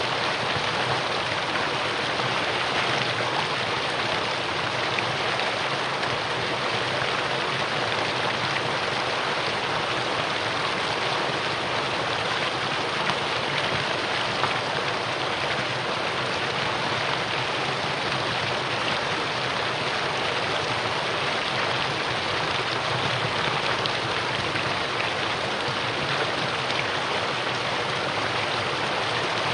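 Mountain valley stream flowing, a steady, even rush of water with no breaks.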